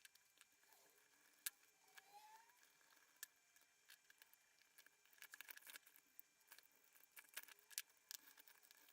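Near silence with faint scattered clicks and ticks of small parts and tools being handled, as the front end of an RC car is taken apart to get the drive shaft out.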